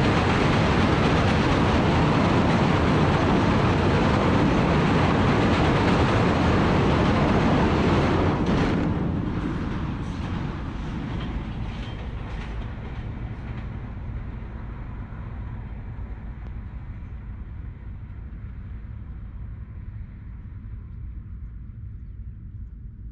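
Broad-gauge PT Inka passenger coaches rolling past at close range over a steel girder railway bridge: a loud, steady rush and rumble of wheels on rail. About eight seconds in, the last coach passes and the sound drops away, fading to a low rumble as the train recedes.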